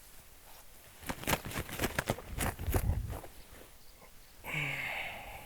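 Footsteps swishing through tall wet grass, a quick run of irregular steps in the middle.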